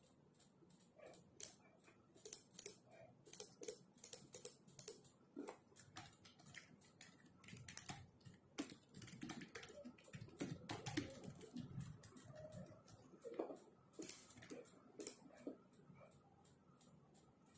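Faint typing on a computer keyboard: quick, irregular runs of keystrokes, busiest in the middle.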